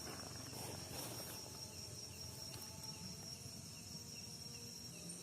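Night insects chirring in a pine forest: one faint, steady, high-pitched trill over low background hiss.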